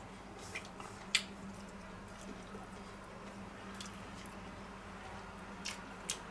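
A person chewing a bite of homemade corn dog, with a few short wet mouth clicks, over a faint steady hum.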